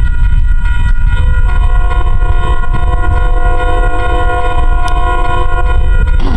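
Metro-North commuter train passing close with a heavy low rumble. Its horn sounds one long chord from about a second and a half in until near the end.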